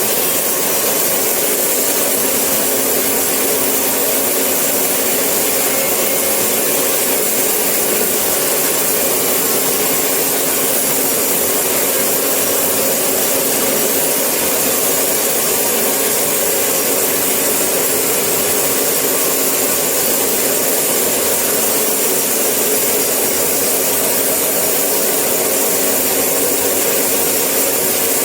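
Sawmill saw running steadily through eucalyptus wood, a loud unbroken whine and rush of cutting noise.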